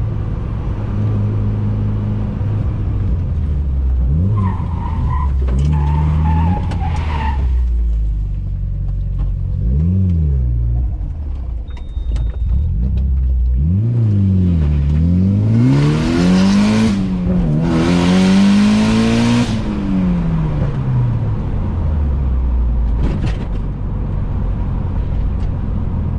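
Car engine revving up and falling back several times, the rises quickest and highest in the second half. About five seconds in there is a wavering high squeal like tyres, and about fifteen to nineteen seconds in a loud rushing noise runs over the revving.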